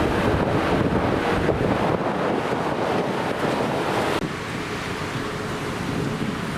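Jet airliner engine noise, a steady roar with a faint whine, mixed with wind on the microphone; about four seconds in the sound cuts abruptly to a quieter, duller rumble.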